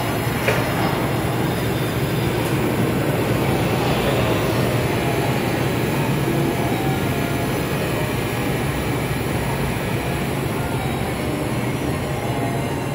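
Steady rushing noise with a low hum from an N700S-series Shinkansen train standing stopped at the platform.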